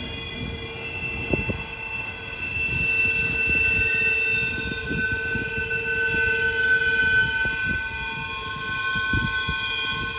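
Double-stack intermodal freight cars rolling around a curve, their steel wheels squealing against the rail in several steady high tones that swell and fade over a low rumble of the cars, with a few short knocks and clanks.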